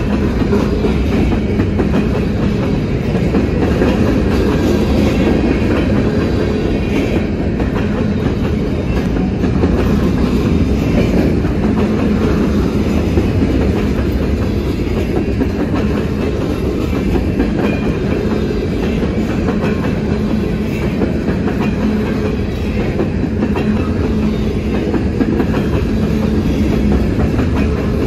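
Covered hopper cars of a long freight grain train rolling steadily past, their steel wheels clattering over the rails and the level crossing.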